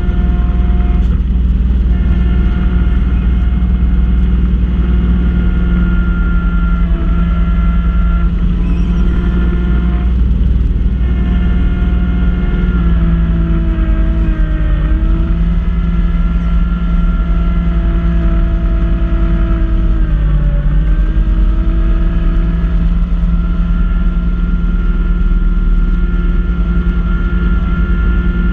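Kubota B2650 compact tractor's three-cylinder diesel running at steady high throttle, driving a front-mounted snow blower. The engine pitch sags briefly twice, about halfway through and again a few seconds later, as the blower takes on load.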